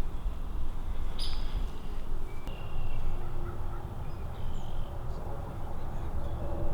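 Wind rumbling on the microphone, with a few short bird calls scattered through it, about a second in, in the middle and later on.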